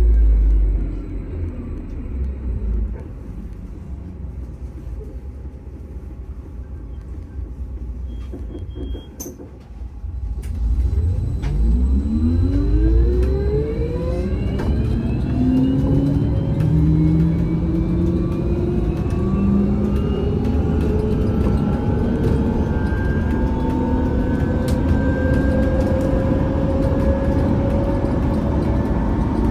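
A VMZ Avangard trolleybus's electric traction drive heard from on board. Its whine falls away at the start and goes quieter for several seconds, with a short high beep near the end of the lull. From about ten seconds in, a stack of rising whines follows as the trolleybus speeds up.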